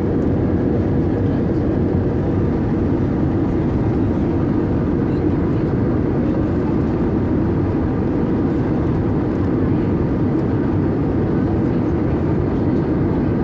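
Steady engine and airflow noise inside the passenger cabin of an Airbus A320 in flight: a constant low rumble with a faint steady hum above it.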